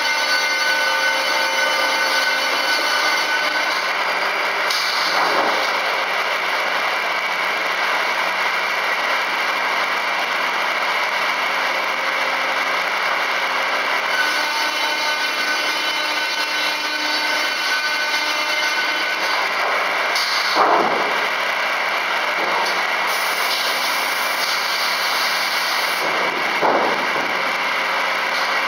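FKD 500 double-arbor circular sawmill running steadily, with the motors and blades making a constant mechanical whine. Three brief louder swells come about 5, 21 and 27 seconds in.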